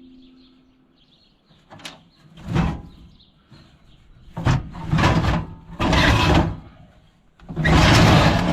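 Metal garden tractor parts being handled and shifted: a run of about five scraping, sliding clunks a second or so apart, the longest and loudest near the end.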